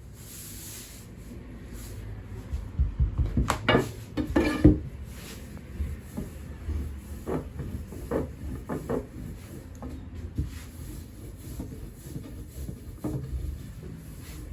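Wooden knocks and rubbing from hand-making soba on a wooden board. A quick run of knocks comes a few seconds in, followed by scattered single knocks.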